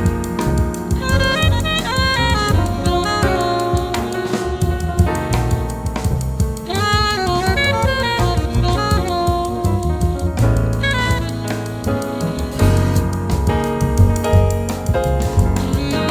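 Small jazz quartet playing: alto saxophone carrying the melody over piano, upright bass and drum kit with ride cymbal.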